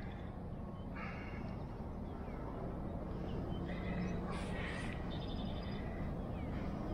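Birds calling a few times over a steady low background, with the loudest, harshest call about four seconds in.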